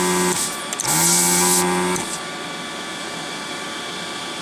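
Pro'sKit SS-331 desoldering gun's built-in vacuum pump switched on in two short pulls, each a steady hum with a hiss of air drawn through the heated nozzle. The first cuts off just after the start, the second runs about a second and stops. It is sucking molten solder off a freshly fluxed joint, which now clears much better.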